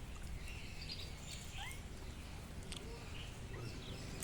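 Faint outdoor background: a steady low rumble with scattered short, high chirps and squeaks from small animals.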